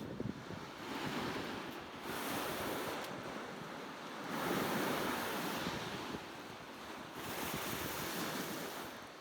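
Sea waves washing onto the shore, the rushing noise swelling and ebbing about four times.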